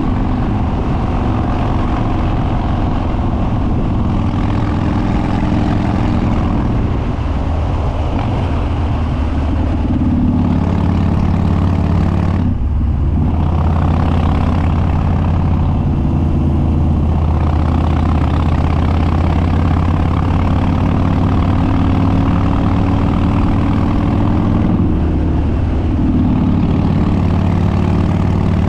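Harley-Davidson Dyna Street Bob's Twin Cam V-twin running under way through open upswept dual exhausts with no baffles, a loud, deep exhaust note. The engine note dips briefly about twelve seconds in and settles at a changed pitch, and shifts again near the end.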